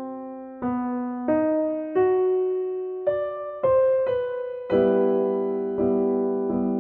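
Background music: a slow solo piano melody, single notes struck one at a time and left to ring and fade, giving way about two-thirds of the way in to a fuller chord struck again every half second or so.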